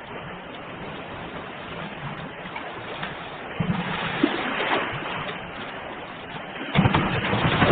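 Ocean waves washing in on the shore, a continuous rush of surf with a wave breaking about halfway through and a louder one breaking near the end.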